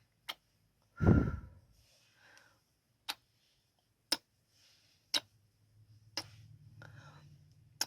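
Close-mic ASMR kissing sounds: sharp lip smacks about once a second, with a louder, lower puff about a second in.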